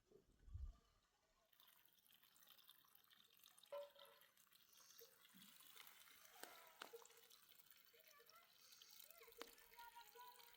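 Faint trickling and dripping water, with a few light ticks.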